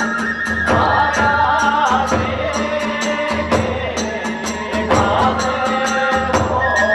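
Kagura hayashi ensemble playing: a bamboo flute carries the melody in held and sliding notes over a steady fast beat of small hand cymbals and a low drum.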